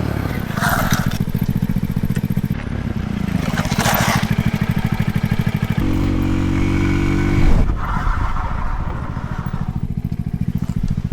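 A Shineray Spring X 50cc scooter's small single-cylinder engine running while ridden, its pitch holding higher for a second or so past the middle and then dropping sharply. Two brief rushing noises come over it, one right at the start and one about four seconds in.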